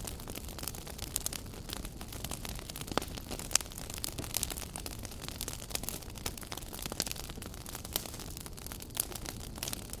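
Wood fire burning in a fireplace, crackling and popping at irregular intervals over a steady hiss, with one sharper pop about three and a half seconds in.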